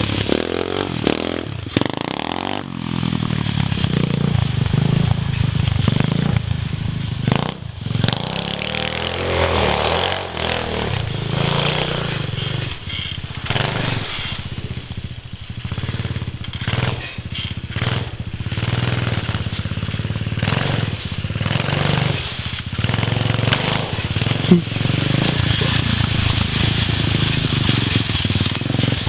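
Dirt bike engine running hard on a trail ride, revving up and down with repeated brief drops as the throttle is closed and reopened.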